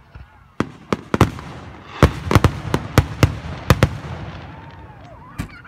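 Fireworks display: aerial shells bursting, a few single bangs, then a rapid volley with crackling between, and one more bang near the end.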